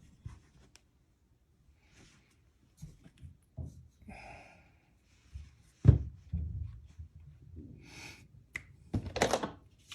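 Hands handling the parts of a Heiniger Saphir clipper during reassembly: scattered small clicks and knocks of plastic and metal pieces, a sharp thunk about six seconds in, and brief rubbing and rustling.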